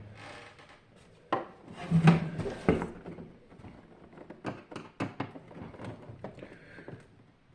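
Handling noise: a run of knocks, clicks and scraping, as of hard objects being moved and set down, with a louder clatter from about one and a half to three seconds in.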